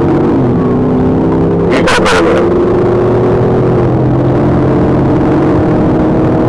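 Patrol car's engine pulling hard under acceleration, heard from inside the cabin. Its pitch drops near the start and again about four seconds in, and there are a few brief clicks about two seconds in.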